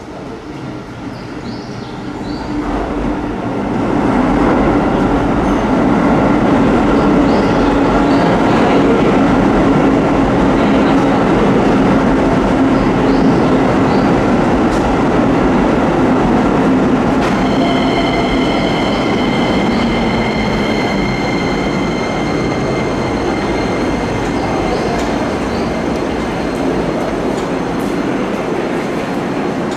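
Keisei 3100-series electric train pulling into a station and slowing to a stop. The running noise swells over the first few seconds, then holds loud and steady. A steady high-pitched squeal joins in about halfway through and lasts to the end.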